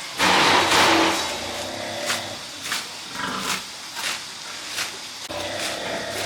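Pigs squealing: one loud squeal at the start, then several shorter squeals.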